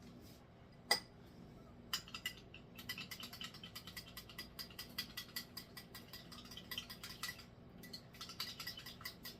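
A spoon clinking quickly and repeatedly against a small dish while stirring honey mustard and oil together, a single tap about a second in, then a steady run of light clinks with a short break near the end.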